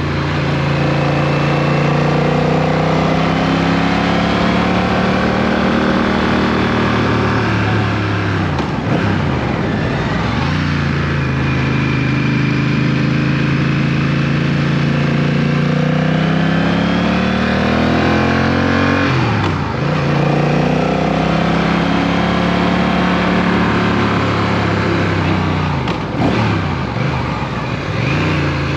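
Motorcycle engine pulling along a road. Its pitch climbs steadily and then drops sharply three times as the rider changes gear.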